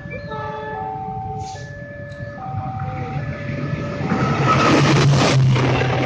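A level crossing's electronic warning signal plays steady tones that step in pitch. About four seconds in, a CC 206 diesel-electric locomotive hauling a container freight train passes close by, and its engine and wheels become loud over the warning tones.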